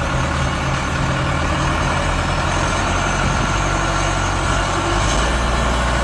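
Heavy vehicle engine running steadily under load, with a strong broad noise over it; its low note grows deeper and stronger about four seconds in.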